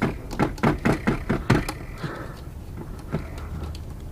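A quick run of about ten sharp clicks and knocks in the first second and a half, then a short scrape and a few softer knocks, from parts being handled in a workshop.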